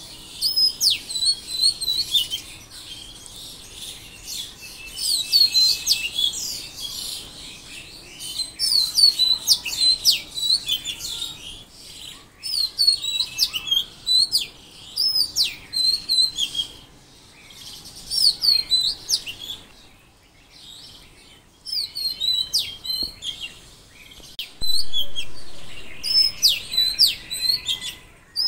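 Birds chirping and twittering in quick, dense runs of short, high, sweeping notes, with a brief lull about twenty seconds in.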